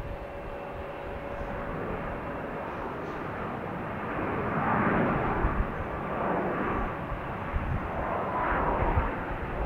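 Aircraft engine noise from a passing airplane, a steady rushing sound that grows louder about halfway in and swells again near the end.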